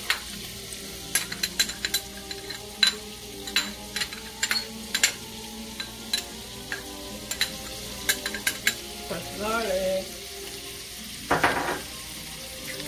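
Crushed garlic sizzling in hot oil in a nonstick wok beside browning pre-cooked chicken strips, as a steady frying hiss. Over it comes a quick irregular run of sharp clicks and taps as the garlic is knocked out of a small glass bowl against the pan, and a brief louder burst near the end.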